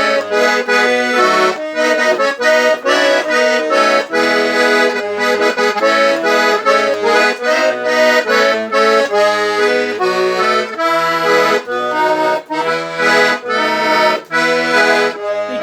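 Accordion (sanfona) playing a quick instrumental melody of short notes over low bass notes, with no singing.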